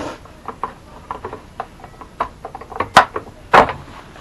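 Scattered light clicks and knocks of handling, with two louder knocks about three seconds in.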